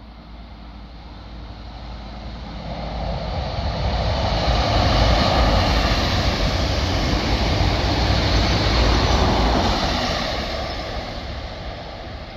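XPT diesel passenger train passing: its power car's engine and the wheels on the rails swell to a peak and then fade away.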